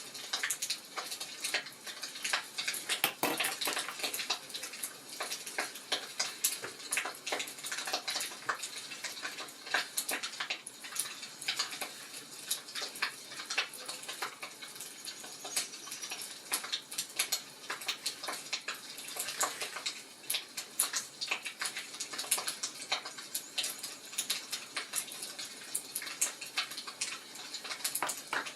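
Wood fire crackling in a fireplace: a steady run of irregular, sharp pops and crackles over a soft hiss.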